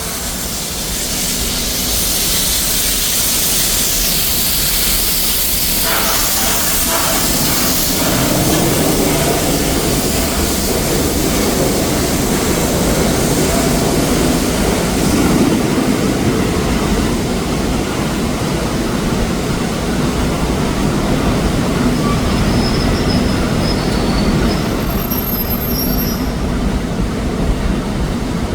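A train moving on the rails: a high hiss for the first several seconds gives way to a steady, louder rumble, with thin high wheel squeals near the end.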